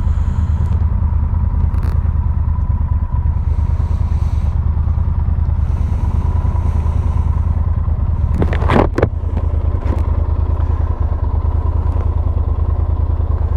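Motorcycle engine running steadily at a low, even note, with one brief louder sound about eight and a half seconds in.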